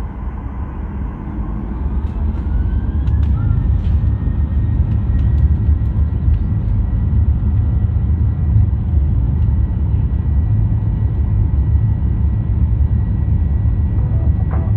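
Airliner engines heard from inside the cabin: a steady low rumble that swells over the first few seconds and then holds, with a faint whine gliding upward as the engines spool up.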